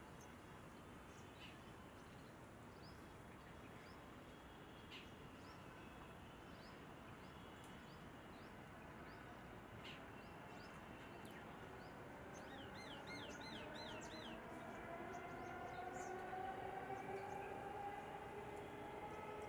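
Faint birds chirping over steady outdoor background noise, with a quick run of about five looping notes in the middle. In the second half a low droning hum slowly rises in pitch and grows louder.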